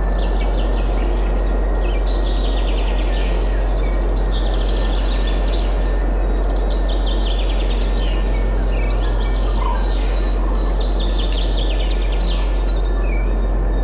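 Songbirds singing over a steady rush of wind: repeated trilled, falling song phrases every couple of seconds, with a constant deep rumble underneath.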